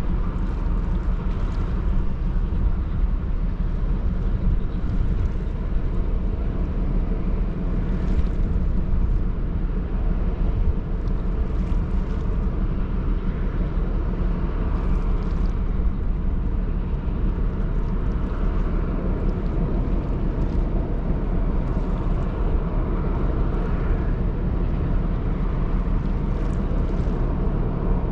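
Ro-Ro passenger ferry under way: a steady low engine rumble with an even rushing noise of wind and water over it, swelling slightly now and then.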